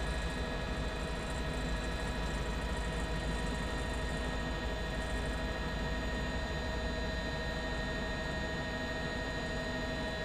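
Steady drone of a news helicopter's turbine engine and rotors, with several fixed whining tones over a low rumble.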